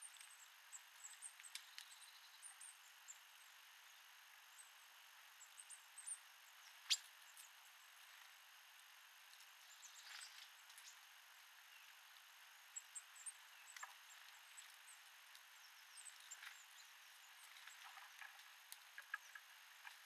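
Small birds feeding, giving faint, short, high chirps scattered throughout, with occasional light taps and one sharper click about seven seconds in.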